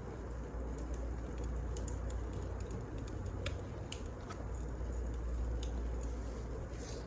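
Firewood burning in a fireplace: scattered, irregular crackles over a steady low rumble.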